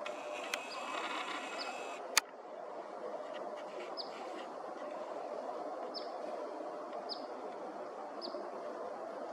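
Short, sharp, high chip calls from a small bird, repeated about once a second, over the steady rush of a running stream. A single sharp click about two seconds in.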